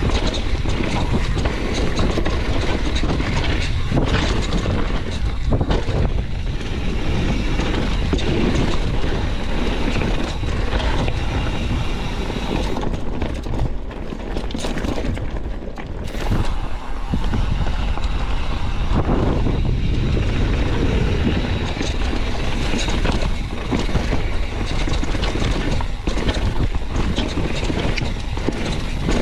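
Loud, steady rushing and rumbling of blizzard wind buffeting the microphone during a run on snow, easing for a few seconds a little before halfway.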